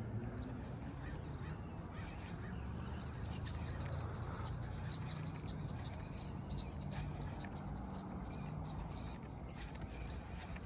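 Small birds chirping and calling, many short high notes, over a low steady hum.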